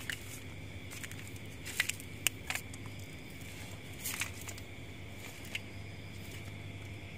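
A few scattered crackles and rustles, typical of footsteps on dry ground, over a steady background hum and a thin steady high-pitched tone.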